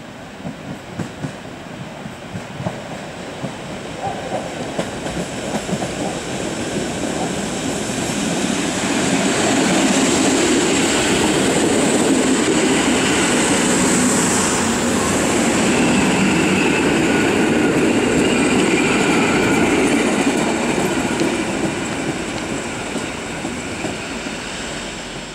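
EN57 three-car electric multiple unit arriving and passing close by. The wheels click over rail joints as it approaches, the sound swells to its loudest about halfway through, and a high squeal comes from the wheels as it slows, then the sound dies away.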